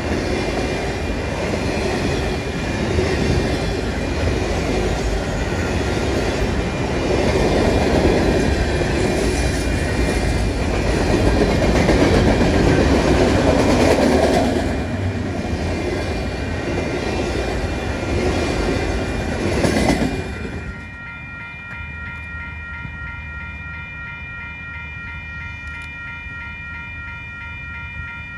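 A train passing close by, its wheels clattering over the rail joints, with the noise cutting off suddenly about two-thirds of the way through. A fainter set of steady high tones carries on afterwards.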